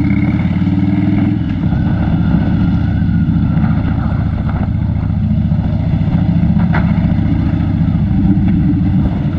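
Harley-Davidson Dyna Wide Glide's V-twin engine running steadily under way, heard from the rider's seat.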